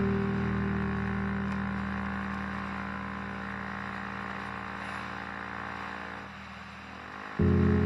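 Vespa scooter's single-cylinder engine running with a steady drone under riding noise, slowly fading and easing off about six seconds in, then suddenly loud again just before the end.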